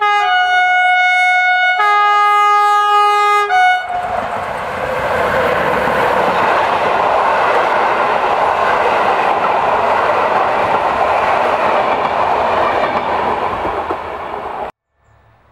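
PKP Intercity EU160 (Pesa Gama) electric locomotive's horn sounding a multi-tone chord in two long blasts and a short one as the train approaches. The passenger train then rushes past with a loud, steady noise of wheels and carriages, which stops abruptly near the end.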